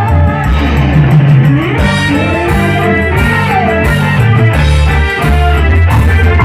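Live dangdut band playing an instrumental passage loudly over a heavy sound system, with booming bass, drums and melodic lead lines.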